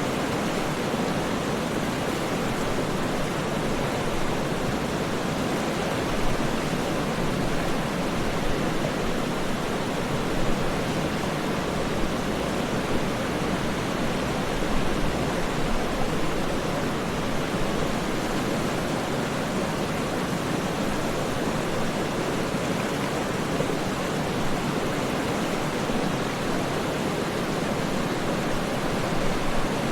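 Waterfall rushing steadily, an even deep hiss of falling water with no change in level.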